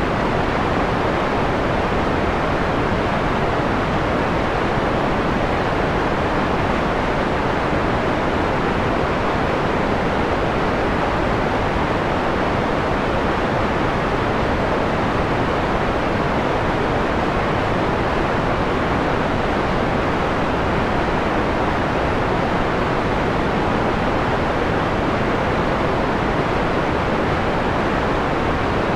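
Steady white noise, filtered so the treble is rolled off and it sounds mellow and soft, with an even hiss and no changes.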